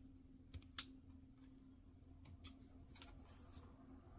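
Faint, sharp plastic clicks of hobby nippers snipping plastic model-kit parts off the runner, the clearest about a second in, with a brief light rustle of plastic parts near three seconds.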